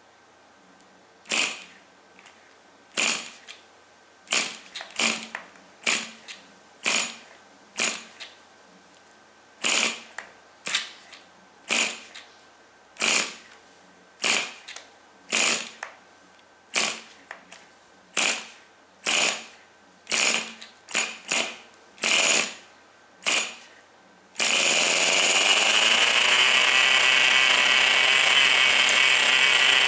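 Recoil pull-starter of a Tamiya TGS 1/10 RC car's small nitro engine being yanked about twenty times, each pull a short whirring burst. About 24 seconds in the engine catches and runs on with a steady high-pitched buzz.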